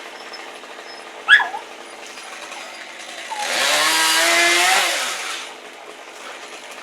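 Chainsaw of a climbing arborist running at a low idle, then revved hard for about two seconds partway through, its pitch rising and then falling. About a second in there is a brief, sharp squeak that slides down in pitch.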